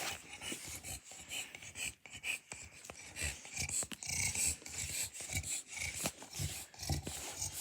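A small dog snoring: a run of uneven, noisy breaths.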